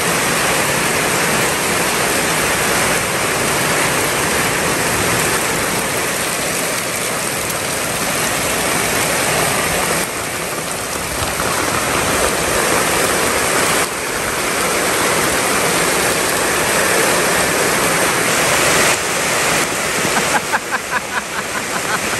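Heavy rain pouring down: a loud, steady hiss of downpour.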